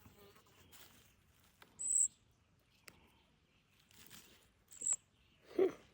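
Fledgling bird giving two short, high-pitched peeps about three seconds apart, with a brief lower sound near the end.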